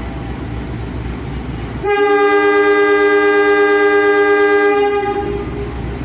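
A train running with a steady low rumble. About two seconds in, a long two-note train horn blast sounds over it for about three seconds, then the rumble carries on.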